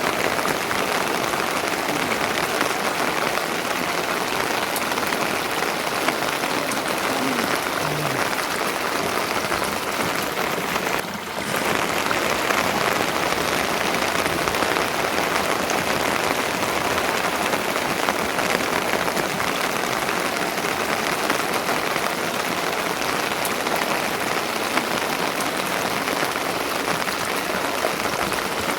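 Steady rain falling, an even hiss with a brief dip about eleven seconds in.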